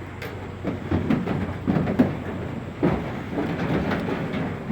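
Irregular knocking and clatter of cattle being unloaded from a livestock truck.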